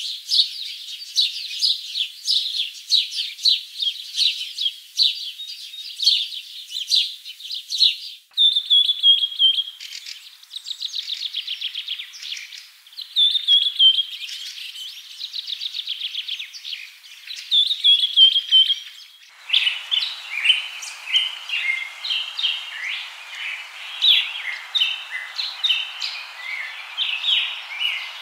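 Birds chirping and singing: a stream of rapid chirps, then repeated short falling trills alternating with fast, even pulsing trills, then a denser chorus of chirps over a light hiss. The sound changes abruptly about 8 seconds in and again about 19 seconds in.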